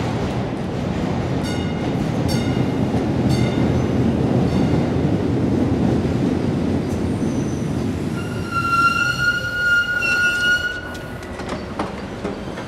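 SNCF Transilien electric commuter train rumbling into a station. A few short squeaks come in the first few seconds. From about 8.5 s a high, steady squeal lasts some two and a half seconds as the train slows to a stop.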